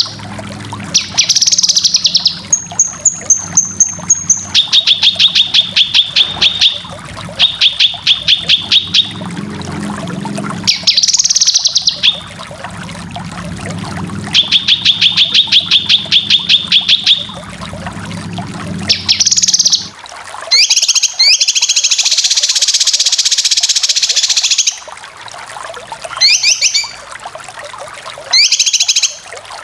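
Cucak kinoy song in rapid 'besetan' bursts: runs of fast, evenly repeated high notes alternating with harsher, higher chattering phrases, with short gaps between. A low steady hum sits under the first two-thirds and drops out about twenty seconds in.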